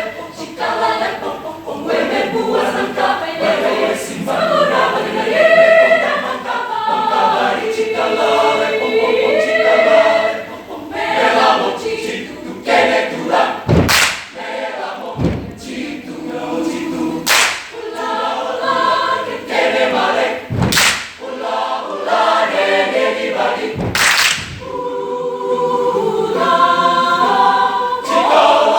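A choir singing a cappella in close harmony, with the pitches moving and sliding. In the middle stretch the singing is broken by a series of loud, sharp percussive hits, spaced a few seconds apart, before the full harmony returns near the end.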